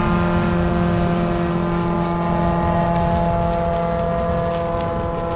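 Single-engine propeller plane at full power as it climbs away after picking up a towed advertising banner; a steady engine drone that eases slightly toward the end.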